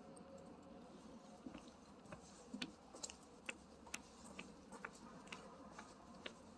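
Faint, irregular clicks and ticks, one to three a second, over a quiet background.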